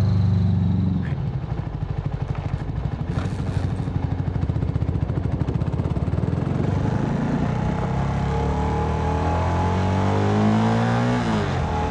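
Motorcycle engine ticking over with a fast, even pulse, then revving up as the bike pulls away, its pitch rising for several seconds before dropping suddenly near the end as it shifts gear.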